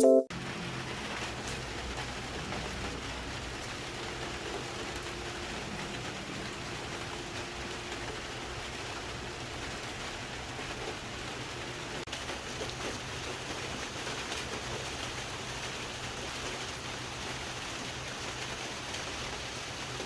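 Steady rain falling, an even hiss with a faint low hum beneath it.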